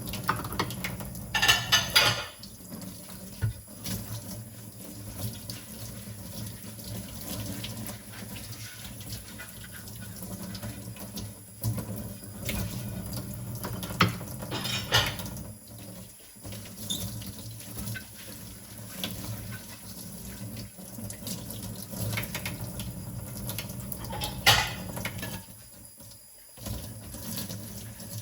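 Water running from a tap into a sink while dishes are washed by hand, with brief clatters of dishes knocking together three times: about a second and a half in, around the middle, and a few seconds before the end.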